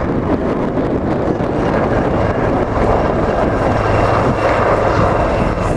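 Strong wind buffeting the microphone over the steady noise of a display aircraft.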